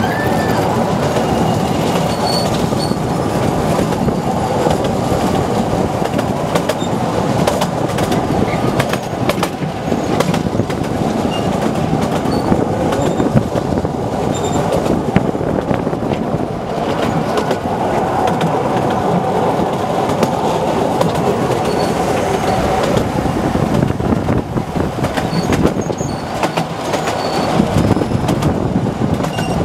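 Open carriage of the Artouste narrow-gauge electric mountain train running along its track: a steady rumble and rattle of wheels and carriages, with frequent sharp clicks as the wheels cross the rail joints.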